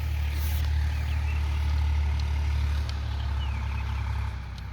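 A vehicle engine running with a low, steady rumble that eases slightly near the end, with a few faint bird chirps.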